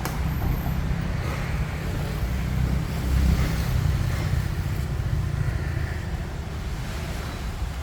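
Road traffic passing on a busy street: a steady low rumble of engines and tyres that swells slightly a few seconds in.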